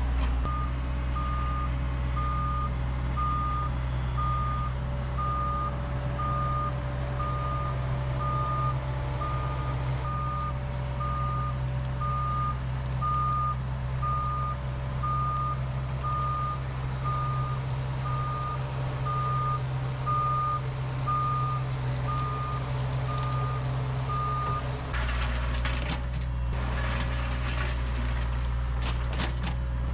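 Bergmann C912 tracked dump truck's diesel engine running steadily while its reverse alarm beeps about once a second. About 25 seconds in the beeping stops, the engine note changes and a few seconds of rattling, scraping noise follow.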